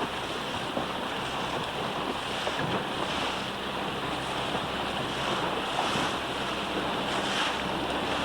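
Steady wind buffeting the microphone, with waves splashing and water rushing past a boat.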